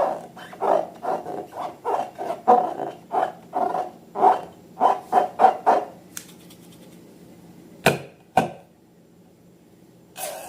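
Slime and rubber balloons being worked by hand: a quick run of squelching, rubbery strokes, about three a second, that stops about six seconds in. Two sharp clicks follow about two seconds later.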